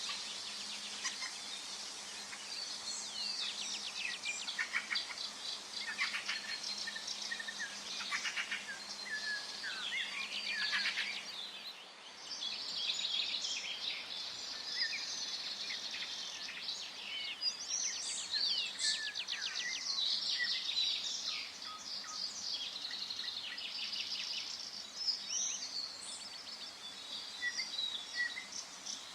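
Forest ambience of several songbirds singing and calling at once: dense, overlapping chirps and quick runs of notes, with a brief lull about twelve seconds in.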